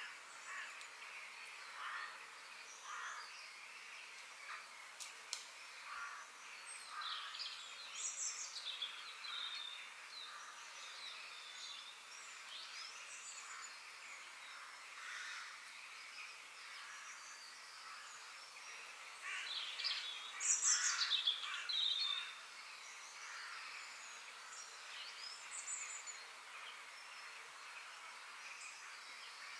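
Several forest birds singing and chirping over a faint steady hiss, with a louder burst of fast trills about twenty seconds in.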